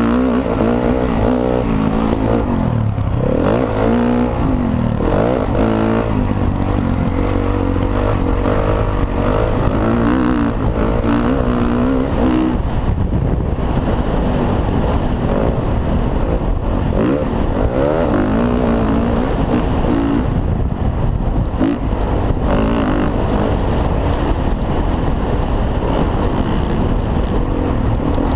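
Motocross dirt bike engine running hard, its pitch climbing and dropping over and over as the throttle opens and closes through gear changes.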